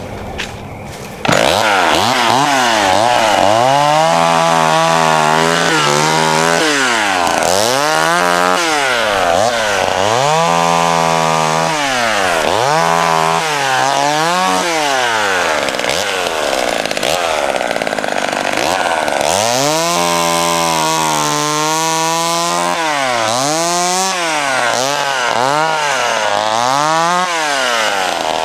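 McCulloch Mini Mac 35 two-stroke chainsaw, which comes up to full throttle about a second in and then revs up and down again and again as it cuts branches, the pitch falling and rising every second or two. It holds steadier high revs for a few seconds in the middle.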